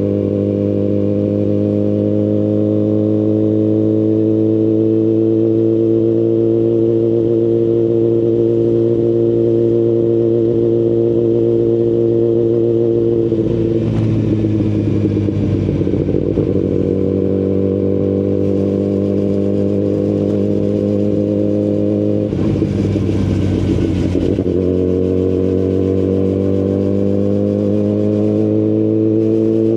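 2019 Kawasaki Ninja ZX-10RR's inline-four engine running through an Akrapovic full carbon exhaust system, heard while riding, its note climbing slowly under light throttle. Twice the steady note breaks up for a couple of seconds, about halfway through and again a few seconds later, before it settles and climbs again.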